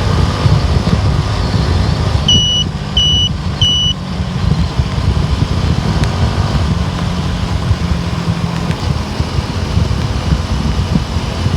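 A car driving on the road, with a steady low rumble of road and engine noise. About two to four seconds in there are three short, high electronic beeps, evenly spaced.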